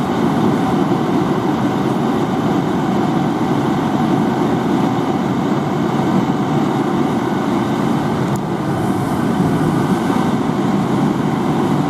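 Fire engine running with a steady, even rumble, with a brief faint click about eight and a half seconds in.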